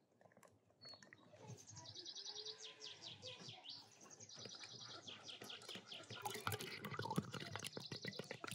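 Small birds singing fast trilled phrases, starting about a second and a half in and repeating, over scattered light clicks and knocks.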